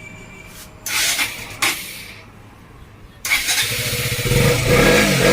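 KTM 125 motorcycle's single-cylinder engine, freshly refilled with engine oil, starting about three seconds in and then revving, its pitch rising and falling near the end. Two short rushes of noise come about a second in, before the start.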